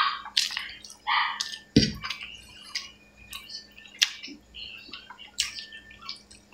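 Close-up wet chewing and lip-smacking of a person eating rice and pork by hand, an irregular string of sharp clicks and smacks. A single dull knock comes about two seconds in.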